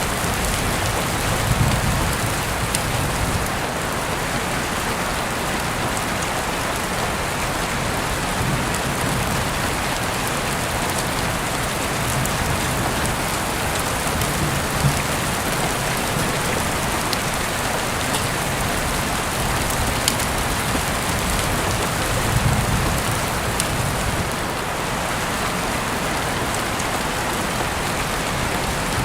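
Heavy rain falling steadily, with sharp drops ticking now and then.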